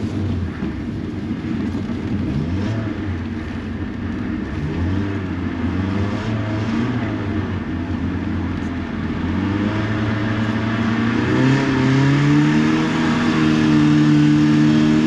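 Car engine being driven hard, its revs rising and falling, then climbing steadily as it accelerates through the last few seconds.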